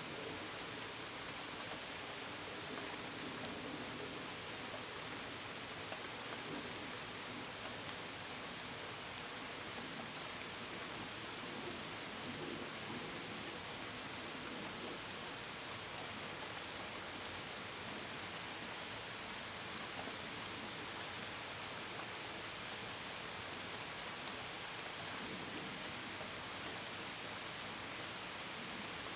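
Steady rain falling, with scattered drops tapping. A cricket chirps in short pulses about once a second.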